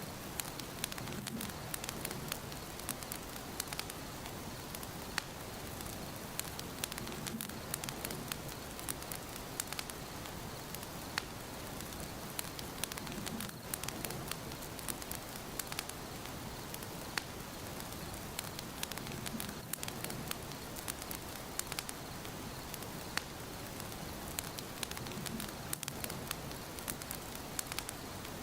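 Wood fire burning in a fireplace: a steady hiss of flames with frequent sharp, irregular crackles and pops, and a soft low swell about every six seconds.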